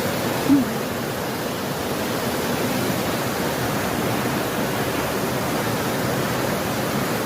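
Floodwater rushing steadily after a heavy rainstorm, a constant even noise. A brief voice sound about half a second in.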